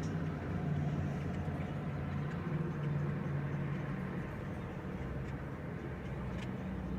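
Steady low drone of a car's engine and road noise heard from inside the moving car.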